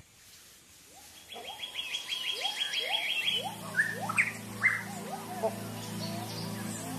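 Forest birds calling: short rising chirps repeated about twice a second, with a fast high trill early on and a few higher chirps. About halfway through, low steady tones of background music come in under the calls.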